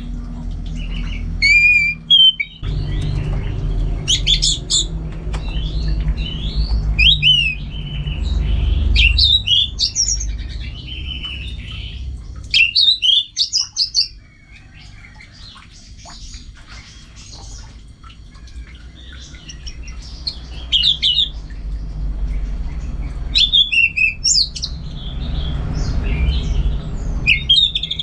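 Orange-headed thrush singing: varied phrases of quick whistled notes sliding up and down, with short pauses between phrases. A steady low rumble runs underneath.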